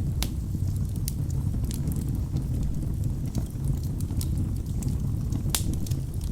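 Wood fire burning in a fireplace: a steady low rumble of flames with irregular sharp crackles and pops from the logs, one louder pop about five and a half seconds in.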